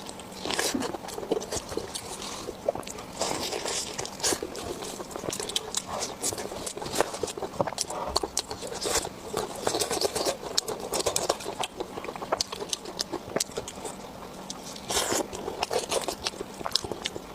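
Close-miked eating sounds of spicy pork belly being chewed: a continuous run of wet mouth smacks, clicks and soft crunches at an irregular pace.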